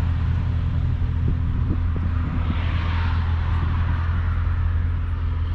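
A vehicle engine running steadily with a low, even rumble. A hiss swells and fades about halfway through.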